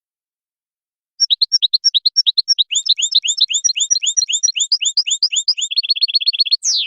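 European goldfinch singing: a fast string of sharp, varied chirping notes starting about a second in, switching near the end to a quicker even trill and a single downward-sweeping note that is cut off abruptly.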